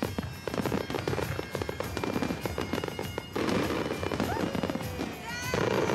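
Fireworks going off: a rapid run of crackling bangs, thickening into a denser, louder rush of bursts from about three seconds in.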